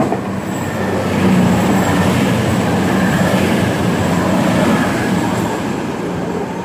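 CrossCountry Voyager diesel multiple unit passing close along the platform: engine and wheel-on-rail noise swells about a second in as the coaches go by, stays loud for several seconds, then eases.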